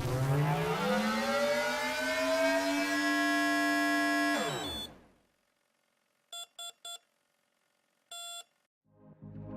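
A rising electronic sweep, rich in overtones, that falls away about five seconds in, then three short beeps and one longer beep, all at the same pitch, like a start countdown.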